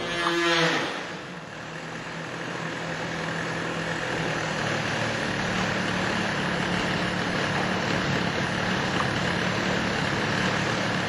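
Model airplane glow engine idling steadily after its pitch drops in the first second, its idle mixture just richened to the correct setting after being too lean.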